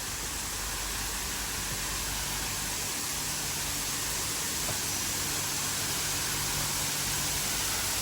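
Waterfall rushing, a steady even roar that grows slowly louder.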